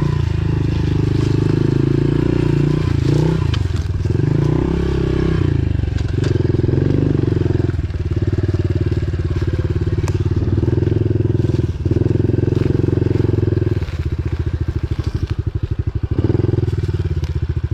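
Pit bike engine under way on a trail, the throttle opened and eased off again and again with short dips every couple of seconds. Near the end it settles to a slow, even chugging at low revs.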